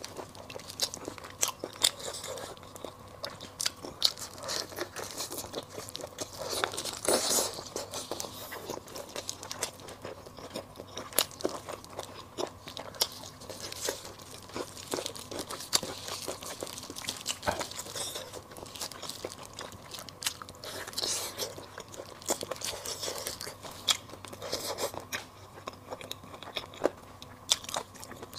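Close-miked eating of braised pig tongue: biting and wet chewing, with many irregular sharp mouth clicks.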